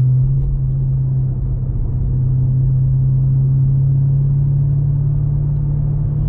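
BMW M5 Competition's twin-turbo V8 running at steady low revs: one constant low drone with a rumble beneath it.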